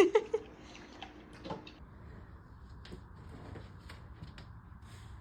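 A dog licking a food bowl clean, the bowl giving scattered light clicks and taps. A brief loud sound that falls in pitch comes right at the start.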